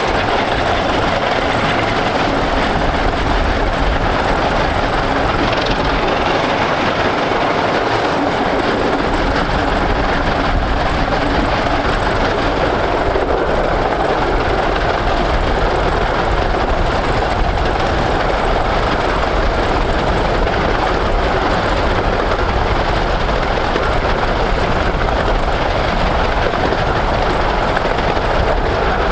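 A 15-inch gauge train hauled by the steam locomotive No.5 Hercules, running steadily along the line: a continuous rumble and rattle of wheels on track that stays at the same level.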